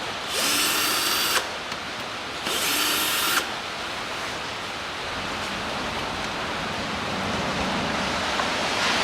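Power tool spinning out the camshaft bearing cap bolts on the cylinder head, in two runs of about a second each.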